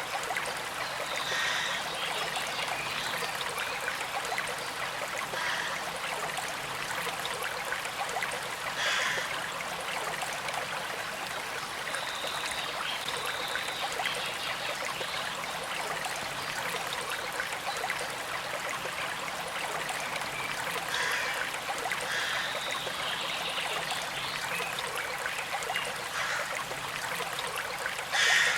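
Small creek flowing steadily: a constant trickle of water, with short louder gurgles every few seconds and the loudest one near the end.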